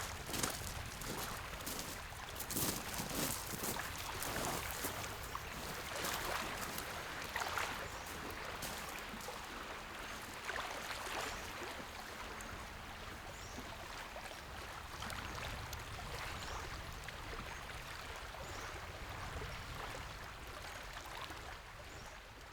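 Small lake waves lapping and splashing against the shore, irregular and gradually quieter toward the end.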